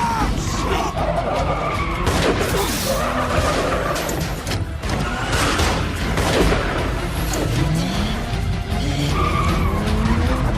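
Action-film soundtrack: car engines revving hard, rising and falling, with tyre skids and a few sharp bangs, under a driving music score.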